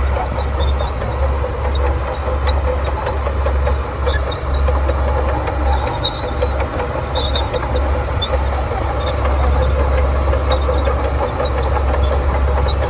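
Shantui DH17C2 crawler bulldozer's diesel engine running steadily under work, a continuous heavy rumble.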